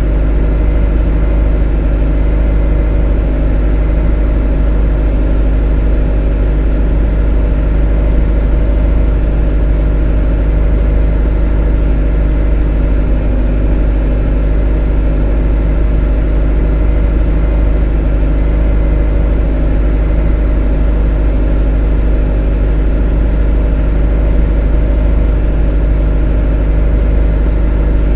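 A motor running steadily at constant speed: an unchanging drone with a strong deep rumble and several steady humming tones.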